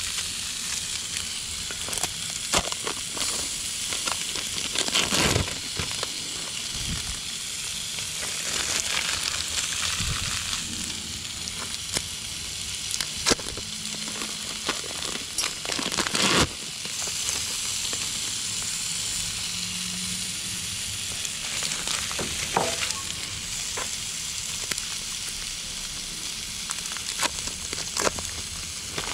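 Burger patties sizzling on a cast-iron griddle over a Coleman two-burner propane stove: a steady frying hiss with scattered crackles and pops, the patties nearly done with cheese melting on top. A few louder rustles break in as plastic wrappers are peeled off cheese slices.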